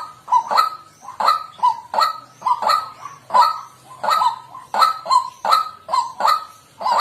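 White-breasted waterhen calling: a continuous run of repeated short 'kwak' calls, about three a second.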